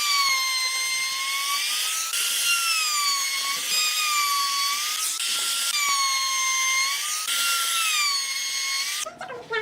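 High-speed power tool working wood: a high whine that sags in pitch under load and recovers, changing abruptly every second or two, and cutting off shortly before the end.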